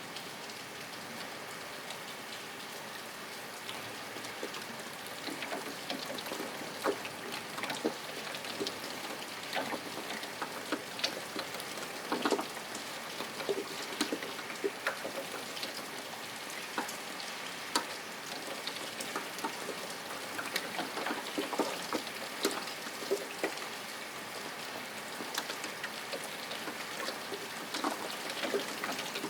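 Steady rain, an even hiss, with single drops tapping close by at irregular moments from about four seconds in.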